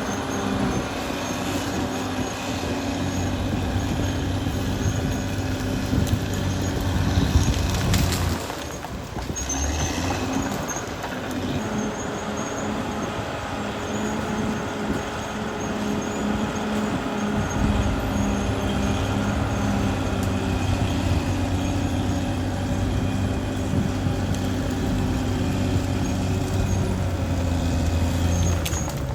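Caterpillar D6R XL bulldozer's diesel engine running steadily, with broad mechanical noise over it. The deep engine note eases off about eight seconds in and comes back strongly around seventeen seconds.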